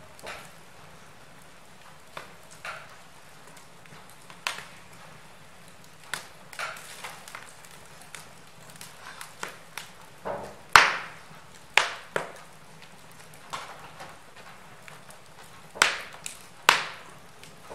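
Wood fire crackling in a fireplace: irregular sharp pops and snaps over a faint steady hiss, with the loudest cracks coming in the second half.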